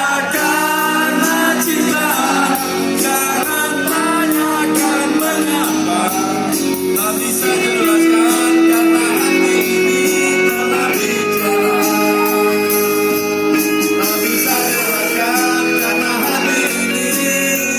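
Live band music with a man singing a pop ballad over it: held, sliding sung notes over a steady beat and sustained keyboard or guitar chords.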